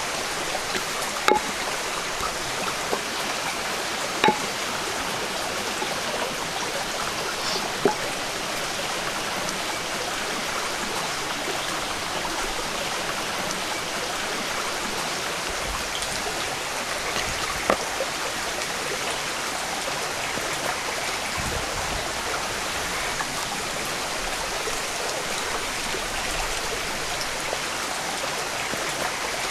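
Steady rush of running water, like a stream, continuing unbroken, with a few sharp clicks or knocks scattered over it.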